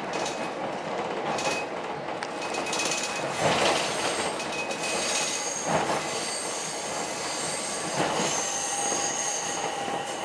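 Ichibata Electric Railway 7000-series railcar running, heard from inside the car: a steady rumble of wheels on rail with high-pitched wheel squeal that grows stronger about halfway through, and a few single knocks.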